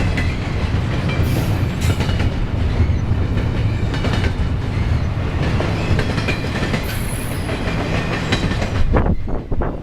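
Intermodal freight cars rolling past at speed: a steady rumble of steel wheels, with clicks over the rail joints and a few brief high wheel squeals.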